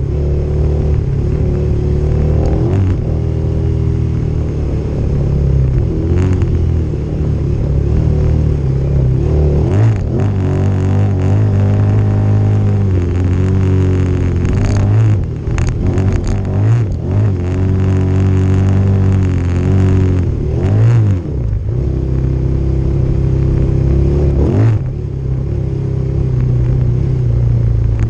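Motorcycle engine running under way, its pitch rising and falling as the throttle is opened and closed, with a few brief knocks about halfway through.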